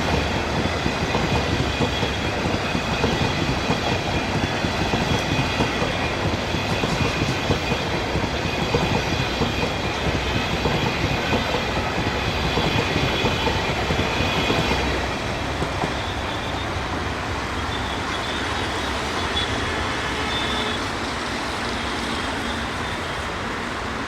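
Passenger coaches of a train rolling past at speed, wheels clattering over the rail joints with a faint high wheel squeal. The clatter eases about fifteen seconds in.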